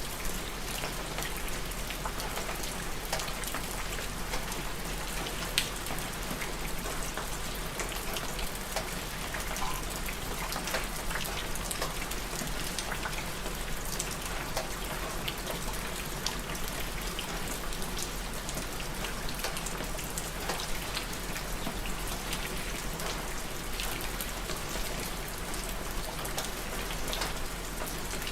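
Steady rain falling on a surface, an even hiss dotted with the ticks of separate drops.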